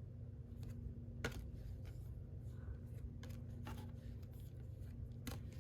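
Baseball cards being handled and flipped through by hand: a few soft, scattered clicks and slides of card stock, over a faint steady low hum.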